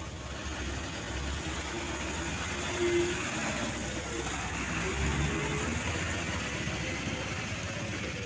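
Diesel truck engine running steadily, with a brief louder sound about three seconds in.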